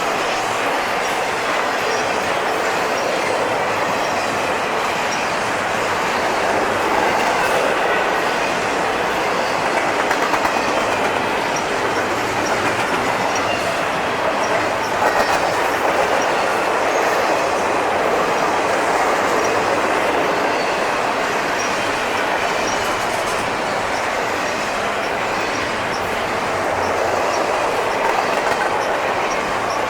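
Intermodal freight train cars, double stacks and piggybacks, rolling steadily past, with a continuous rumble of steel wheels on rail and a clickety-clack over the rail joints.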